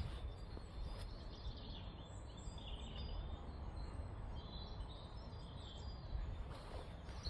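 Small songbirds chirping and calling, a string of short high notes, over a steady low rumble.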